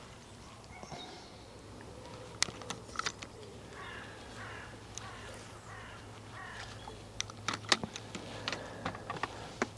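Birds calling faintly over the water several times, with scattered sharp clicks and ticks from fishing tackle being handled, mostly around the third second and near the end.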